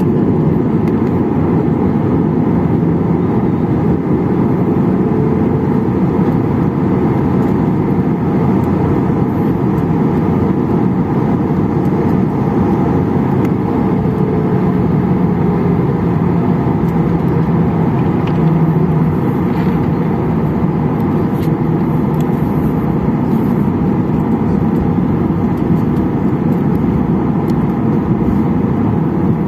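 Steady cabin rumble of a Boeing 737-800 on the ground before takeoff, its CFM56-7B engines running at idle.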